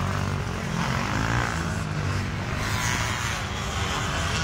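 Motorcycle engines running in a continuous drone, with a faint whine that wavers in pitch about halfway through.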